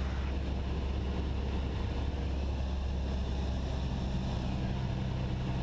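Cessna 172SP's Lycoming IO-360 four-cylinder engine and propeller droning steadily in flight, heard inside the cockpit.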